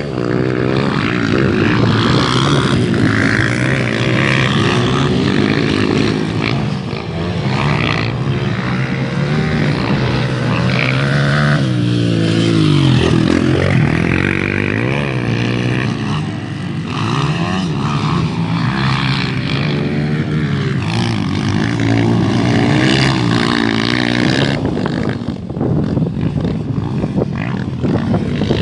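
Several motocross bikes' engines revving as they ride round a track, their pitches rising and falling with the throttle and overlapping one another.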